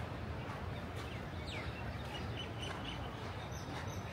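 Birds calling over steady outdoor background noise, one giving a short falling whistle about a second and a half in, followed by a few brief high chirps.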